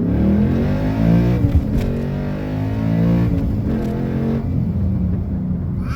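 2012 Ford Mustang Boss 302's 5.0-litre V8 accelerating hard through the gears, its exhaust running through SLP Loudmouth axlebacks and resonator-deleted side pipes. The pitch rises, drops at each upshift and rises again several times.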